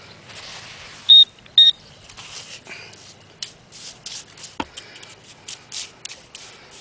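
Two short high electronic beeps from metal-detecting gear, half a second apart, followed by a run of short gritty scrapes of a tool digging into beach sand, with one sharp click midway.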